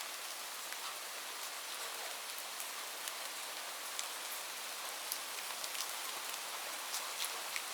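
Light rain falling steadily, a continuous hiss with scattered individual drops ticking on a surface.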